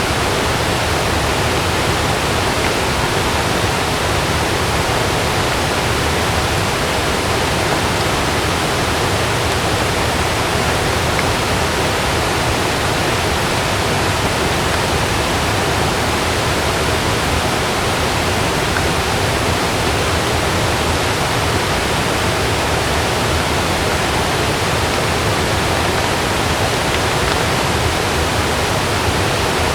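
Heavy rain falling steadily on a camping tent: an even, unbroken hiss with no thunder claps.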